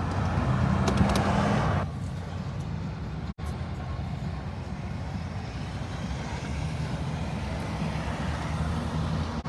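Road vehicle engines running at slow convoy speed, a steady low rumble. It is louder for the first couple of seconds and cuts out for an instant about three seconds in.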